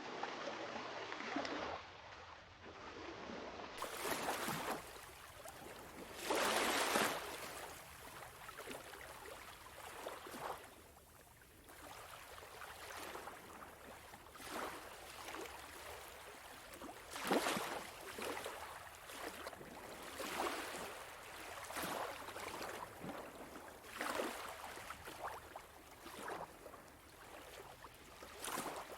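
Small sea waves washing up on a sandy beach, a surge of water every two to four seconds, the loudest about a quarter of the way in.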